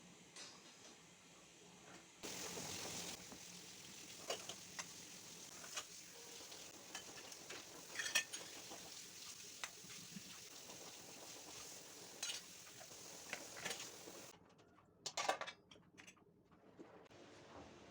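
Faint kitchen cleaning sounds: a steady hiss with scattered light clinks and knocks of dishes and utensils. There is a brief louder hiss about two seconds in and a short cluster of knocks near the end.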